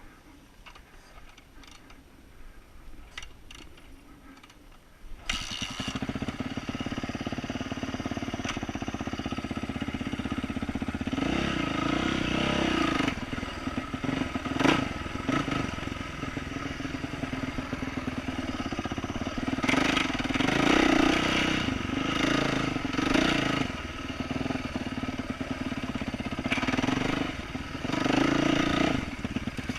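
A 2012 Yamaha YZ450F dirt bike's single-cylinder four-stroke engine, fitted with an aftermarket exhaust, starting suddenly about five seconds in after a few faint ticks. It then runs, with the revs rising in several bursts.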